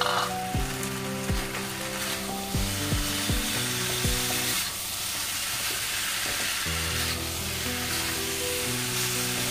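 Chicken, sliced onion and green bird's eye chillies sizzling in a wok as a silicone spatula stirs and tosses them, with a few knocks of the spatula against the pan in the first half. Soft background music underneath.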